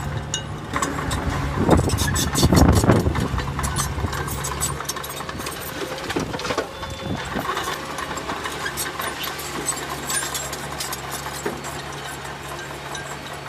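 Heavy diesel earthmoving machinery running steadily, with a louder surge and clanking about two to three seconds in.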